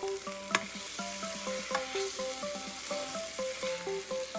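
Chopped onions, masala paste and spices sizzling in hot oil in a stainless-steel pressure cooker while a steel spoon stirs them, with two sharp clicks of the spoon against the pan. Soft background music plays under it.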